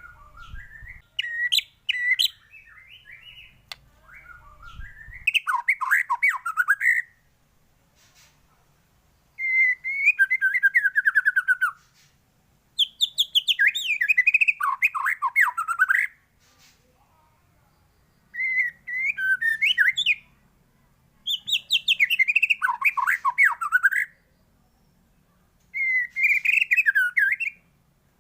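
White-rumped shama singing: loud, varied whistled phrases of two to three seconds each, separated by short pauses, about seven phrases in all.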